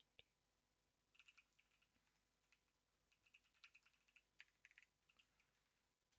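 Faint typing on a computer keyboard: a short burst of keystrokes about a second in, then a longer, irregular run of keystrokes from about three to five seconds.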